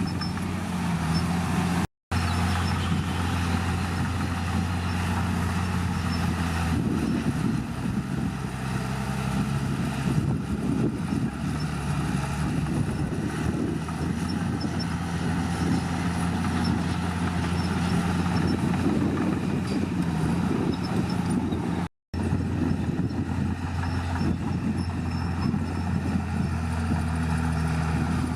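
Heavy diesel engine of earthmoving machinery running steadily, its note shifting a little as the load changes. It is broken twice by a momentary dropout to silence.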